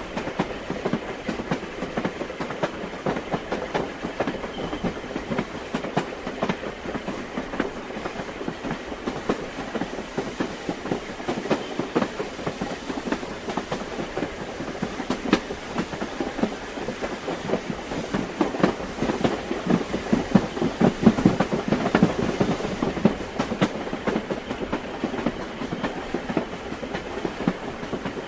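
Train wheels clattering over rail joints: a continuous rapid clickety-clack over a steady rolling rumble, growing somewhat louder about two-thirds of the way through.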